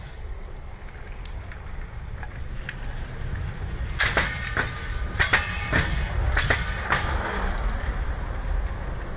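Train rolling over the rail close by: a low rumble that grows louder, then from about four seconds in a string of sharp metallic clacks with ringing as the wheel sets pass over.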